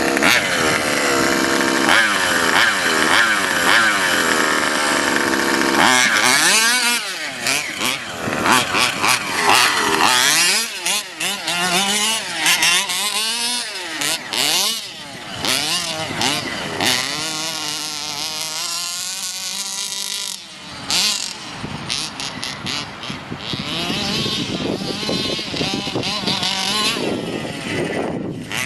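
The 29cc petrol two-stroke engine of a homemade 1/5-scale RC monster truck, running loud and revving up and down as the truck drives, its pitch rising and falling many times. About two-thirds of the way through it drops to a lower, steadier run for a few seconds, then picks up again.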